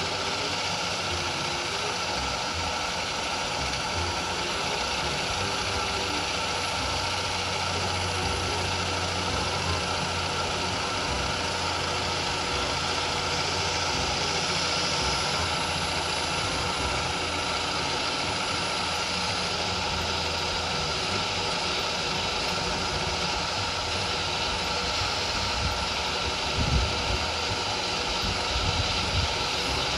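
Home-built one-cylinder Lego vacuum engine running steadily, its plastic mechanism making a constant mechanical clatter. A few louder knocks come near the end.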